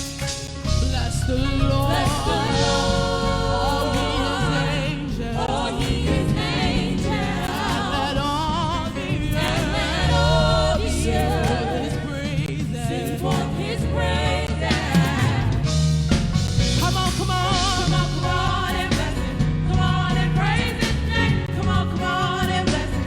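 Gospel worship music: several voices singing, wavering and held, over a band with a steady bass line.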